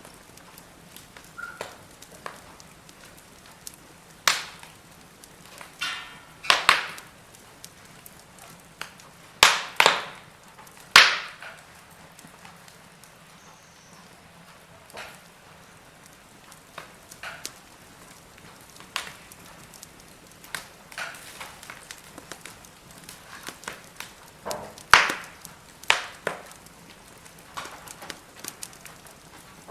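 Firewood burning, crackling with sharp, irregular pops over a faint steady hiss, a few pops much louder than the rest.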